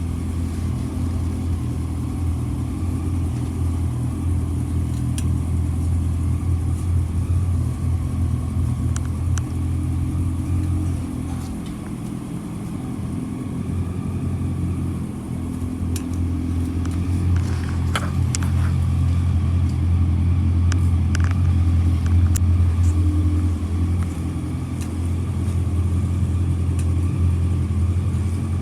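Kawasaki W650's air-cooled parallel-twin engine running steadily at idle, dipping slightly in level about twelve seconds in and running a little louder again from about twenty seconds in.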